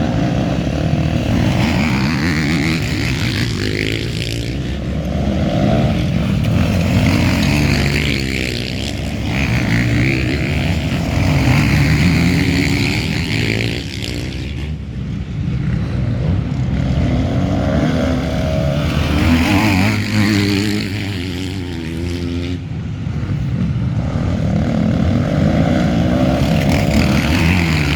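Motocross bikes racing: several engines revving hard and backing off, their pitch climbing and dropping over and over as the bikes come by and move away.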